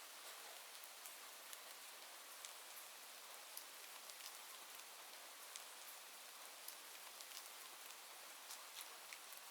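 Soft, steady rain hiss with scattered faint ticks of drops.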